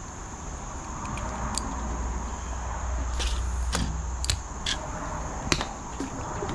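Steady high-pitched insect chirring, as from crickets, with a low rumble in the first half and several scattered sharp clicks.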